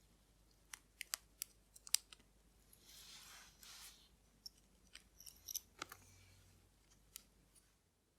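Faint, sharp clicks and taps of small watchmaker's hand tools on watch parts during disassembly, irregular and a few to the second. A short hissing rush comes about three seconds in.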